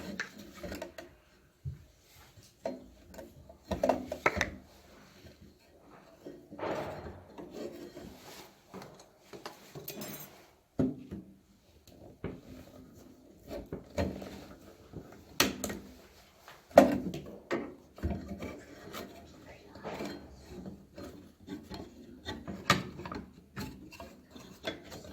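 Irregular scraping and rubbing with scattered knocks as a refrigerator is shifted out of its place and handled; the sharpest knock comes about 17 seconds in.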